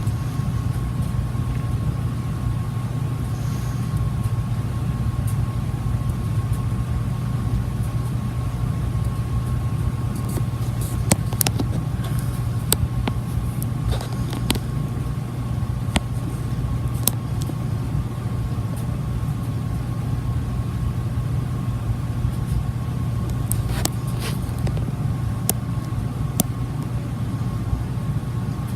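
Olympia MFG five-blade ceiling fan running with a steady low hum and a faint, thin high tone. Scattered sharp clicks come in the middle and again near the end.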